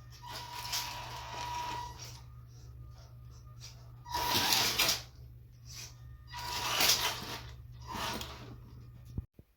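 Small electric motors whirring in several short bursts, with a high whine in some of them, over a steady low hum that stops just before the end.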